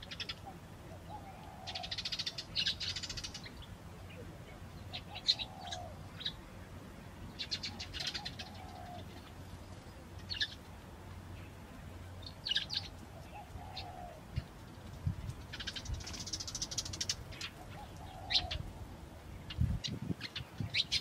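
Wild birds calling: bursts of high chirps and trills from small birds, and a lower, short cooing call that comes back every few seconds.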